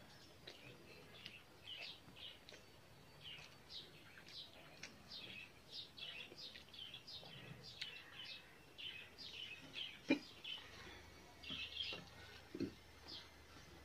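Small birds chirping over and over, short high chirps at about two or three a second. A single sharp knock about ten seconds in, and a duller one a couple of seconds later.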